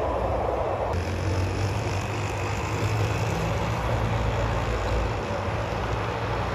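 Train running past at speed: a steady rumble with a low hum, shifting in character about a second in.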